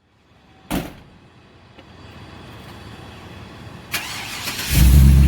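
A Peterbilt truck's diesel engine starting near the end, catching with a loud, low-pitched sound. A sharp click comes about a second in, and another just before the engine catches.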